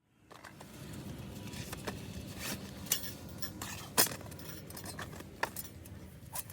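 Scattered sharp metallic clinks and knocks of camp gear being handled, over a steady low background noise; the loudest clink comes about four seconds in.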